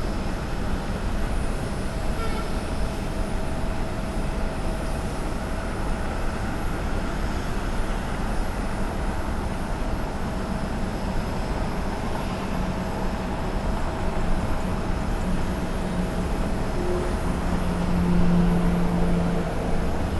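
Airbus A320 airliner's jet engines running, a steady noise with a constant whine; a lower hum grows louder near the end.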